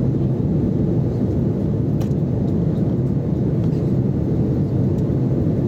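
Steady low rumble of an Airbus A330-300's jet engines and airflow, heard from inside the cabin, with a couple of faint ticks.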